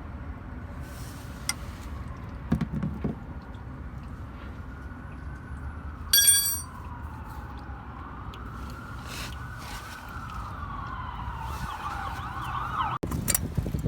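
An emergency vehicle siren wailing, slowly rising and falling, then switching to a fast warbling yelp near the end, over a low steady rumble. About six seconds in there is one sharp metallic clink with a ringing tone.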